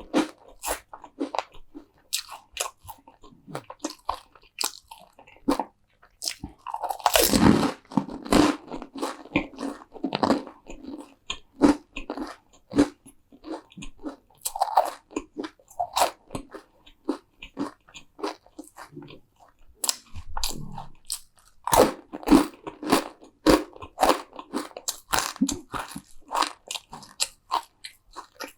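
Close-miked eating: bites into crunchy food and steady crunchy chewing, with brief pauses now and then.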